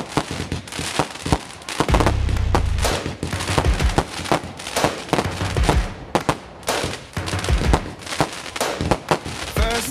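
Aerial fireworks going off: an irregular rapid string of sharp bangs and crackles, with a heavier low boom about two seconds in.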